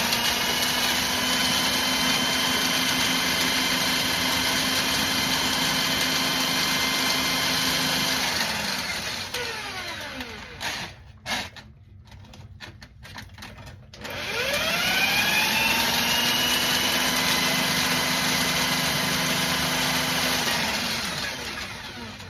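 Drill spinning a Husky drum hand-snake attachment as the cable is fed up a clogged drain pipe: a steady motor whine for about eight seconds that winds down, a few clicks, then a second spin-up and run of about six seconds that winds down again near the end.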